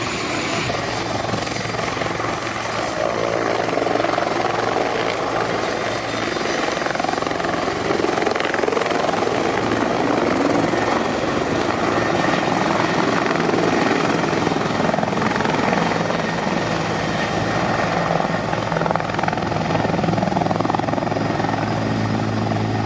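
Helicopter running with steady, loud rotor and engine noise and a constant low hum.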